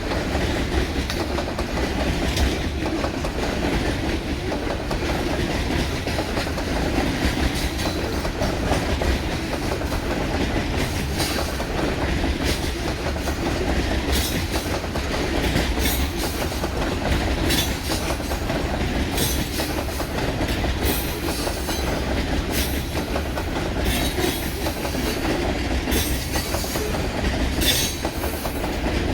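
Coal train cars rolling past with a steady rumble, their steel wheels clicking repeatedly over rail joints.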